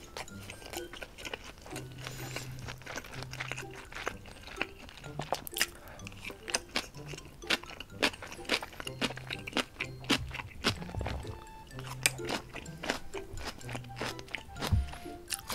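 Close-miked chewing of food, with many quick wet clicks and crunches from the mouth, over soft background music.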